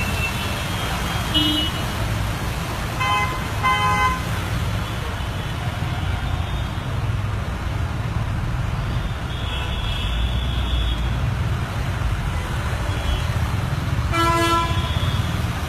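Road traffic with vehicle engines running in a steady low rumble and car horns honking several times: two short beeps about three and four seconds in, and a longer one near the end.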